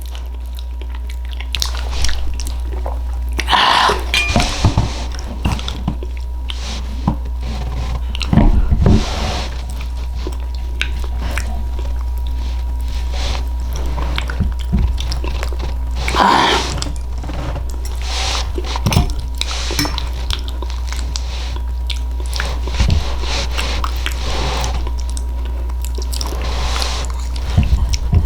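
Close-up chewing of soft baked sweet potato with marshmallow topping: scattered wet mouth sounds and bites, over a steady low hum.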